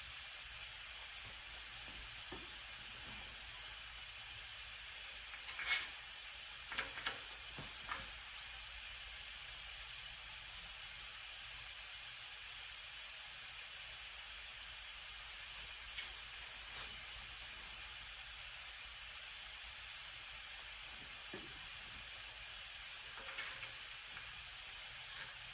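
Steady high hiss, with a few light clicks and knocks about six to eight seconds in and two fainter ones near the end, like parts and tools being handled.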